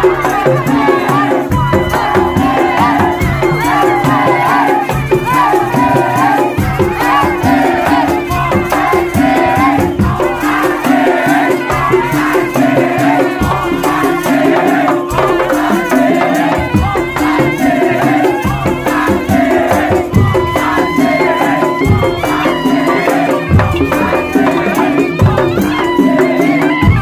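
Madurese tong-tong (ul daul) ensemble playing: loud, dense percussion with rattles and repeated drum strokes under a wavering melody line.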